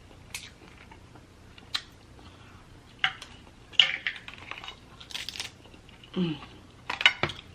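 Snow crab leg shells cracking and snapping as they are broken open by hand, a string of separate sharp clicks about once a second, with eating sounds in between.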